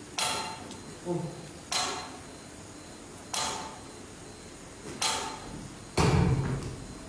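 A series of six sharp knocks or bangs at uneven intervals, each with a short ringing tail; the last, about six seconds in, is the loudest and deepest.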